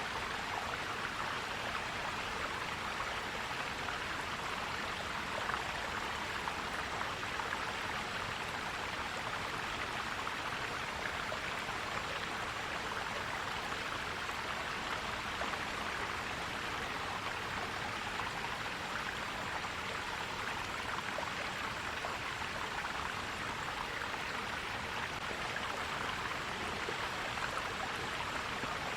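Forest stream flowing and gurgling over rocks in a steady wash of water noise.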